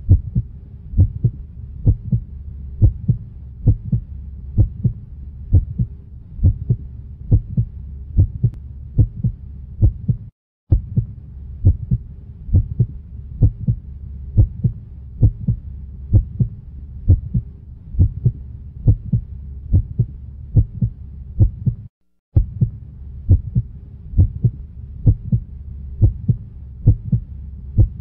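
Heartbeat sound effect: a steady, evenly repeating double thump over a low hum. It cuts out completely for a moment twice.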